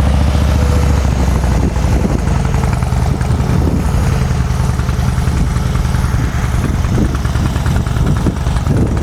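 Harley-Davidson Softail Slim's 103-cubic-inch V-twin idling through its shotgun exhaust, freshly started; the idle settles a little a couple of seconds in.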